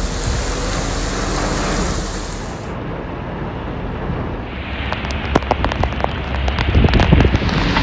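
Heavy rain pouring down, a steady loud wash of noise. It changes abruptly about three seconds in, and from about five seconds in a run of sharp taps from drops striking something close by comes through.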